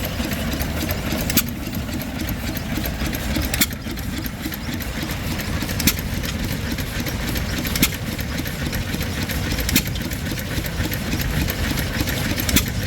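Small Fairbanks stationary gas engine running a grain grinder: a steady low running noise, with a sharp pop about every two seconds.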